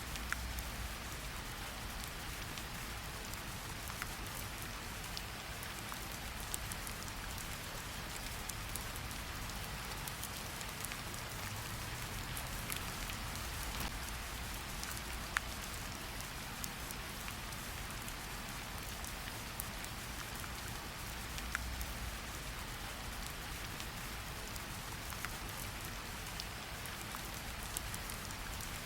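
Wood fire in a fireplace crackling with scattered sharp pops over a steady hiss of rain.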